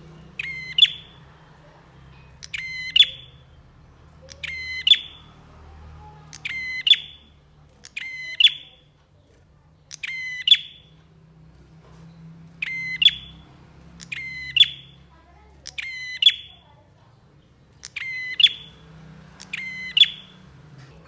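Prenjak (prinia) calling: a short, sharp, rattling call repeated about every two seconds, over a faint low hum.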